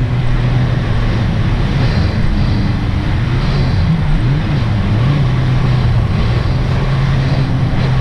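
Sea-Doo RXT-X 300 personal watercraft's supercharged Rotax three-cylinder engine running under way over a steady rush of noise, its pitch dipping and rising a few times around the middle as the throttle changes.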